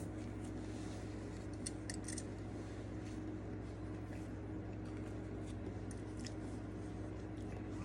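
Quiet eating sounds: a few small sharp clicks and crackles of food and wrapper being handled and bitten, clustered about two seconds in and again past six seconds, over a steady low hum.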